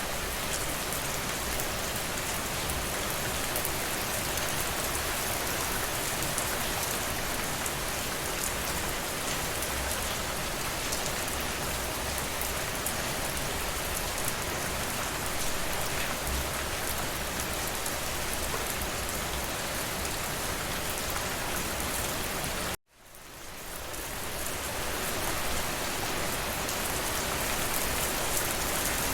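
Steady rain falling, an even hiss with fine drop patter. About three-quarters of the way through it cuts out suddenly for an instant, then fades back in over a couple of seconds.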